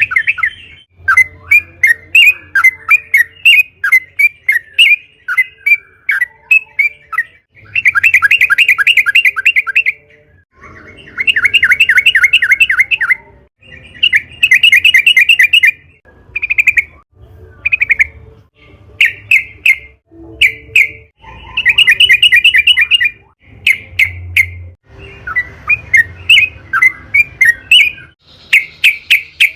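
Yellow-vented bulbul (trucukan) singing: loud, bubbly phrases of rapid notes lasting one to three seconds, with shorter chirped calls between and brief pauses.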